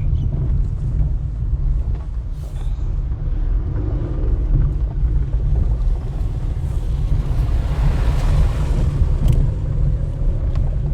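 Steady low rumble of a car's road and engine noise, heard from inside the moving vehicle, with a hiss that swells and fades about eight seconds in.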